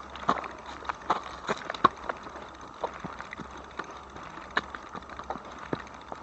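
Irregular clicks and taps, a few a second, over a low steady hum, as an e-bike is walked along the trail: footsteps and the bike's rattles.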